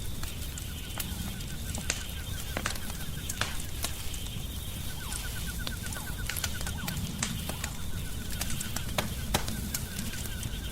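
Wood fire crackling and popping in a fireplace: irregular sharp pops over a steady low rumble. A high, rapid pulsing trill comes and goes in stretches of a few seconds over it.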